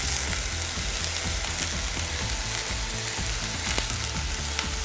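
Hot oil sizzling in a frying pan as shredded cabbage with coconut goes in over tempered mustard seeds and onions, with a few light clicks.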